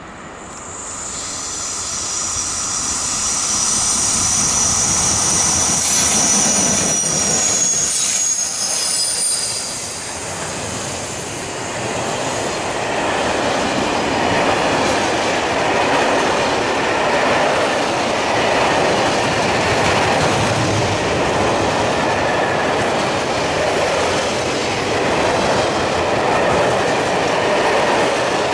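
A long freight train passing close by. High-pitched wheel squeals, gliding in pitch, sound through the first ten seconds as the locomotives and first wagons come past. After that comes the steady rolling rumble and clatter of covered wagons on the rails.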